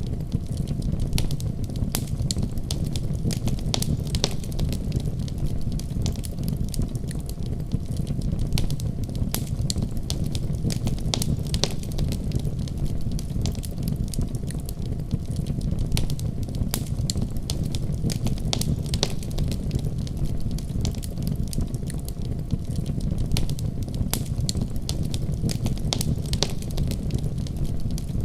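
Fireplace crackling, with frequent sharp pops and snaps over a steady deep rumble.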